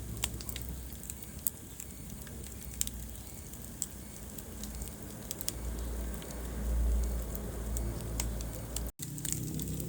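Wood fire crackling in a fireplace: irregular sharp pops and snaps over a low, steady rumble of flames, which swells briefly past the middle. A split-second dropout to silence comes near the end.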